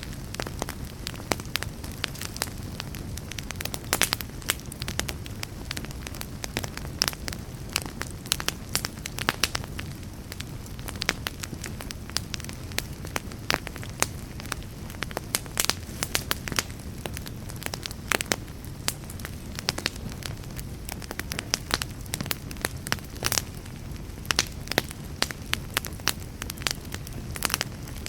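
Wood fire burning, with a steady low rumble under frequent sharp, irregular crackles and pops.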